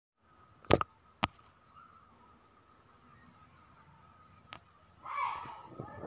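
Small birds chirping in short, falling high notes in the background over a faint steady tone, broken by two sharp clicks about a second in, another near the middle, and a brief noisy rustle near the end.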